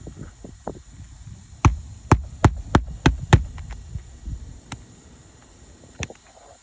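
Nails being driven into old, brittle asphalt shingles: a quick run of six sharp strikes, about three a second, starting a second and a half in, then a couple of lighter taps.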